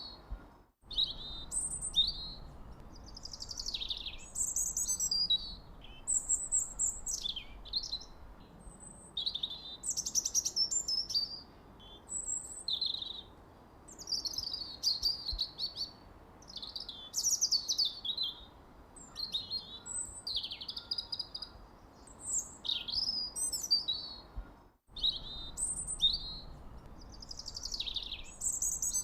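Several small songbirds chirping in quick, overlapping high calls and short sweeping notes, over a faint steady background hiss. The sound cuts out completely for a split second twice, once about a second in and once near the end.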